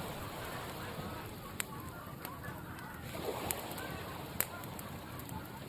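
Campfire crackling, with a few sharp pops, over a steady rush of sea surf.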